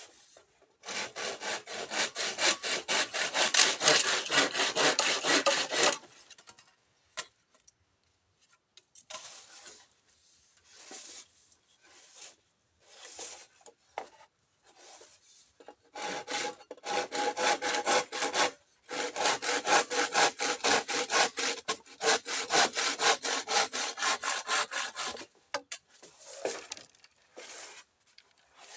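Hand saw cutting bamboo in quick back-and-forth strokes. The sawing comes in three long bouts, with short, scattered strokes in the pauses between.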